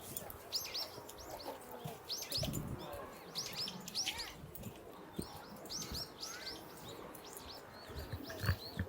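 Small birds chirping: many short, high, arched notes repeating quickly, with several birds overlapping, plus a few soft low thuds.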